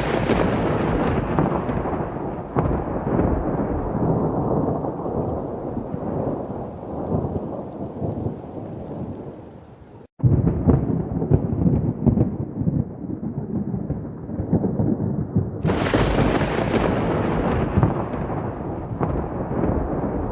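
Thunder sound effect: a long rolling rumble that slowly fades. About ten seconds in it cuts out for an instant and a fresh rumble begins, and a sharper thunder crack breaks in near sixteen seconds, then rolls away.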